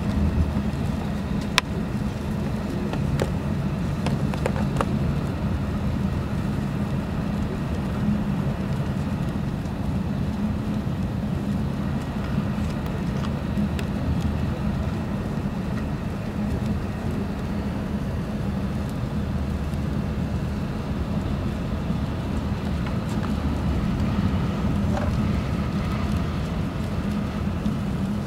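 Running noise of an E6 series Shinkansen heard inside the passenger cabin: a steady low rumble of wheels on track, with one sharp click about a second and a half in.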